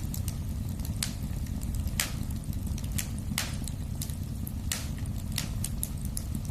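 Wood fire in a fireplace burning with a steady low rumble and frequent sharp crackles and pops.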